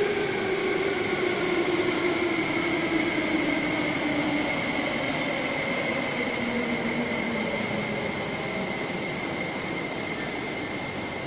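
MTR electric multiple-unit train braking as it pulls in along the platform: its motor whine falls steadily in pitch as it slows, over wheel-on-rail rumble and a steady high whine, the whole sound gradually getting quieter.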